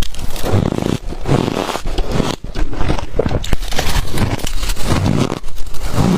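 Ice dusted with matcha and milk powder being bitten and chewed close to the microphone: dense, irregular crunching with short pauses between bites.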